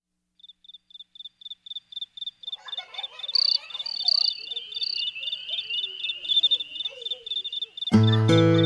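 Crickets chirping in a steady rhythm of about four high chirps a second, fading in, with a denser insect trill joining a few seconds in: the cricket intro of a song. Acoustic guitar comes in loudly near the end.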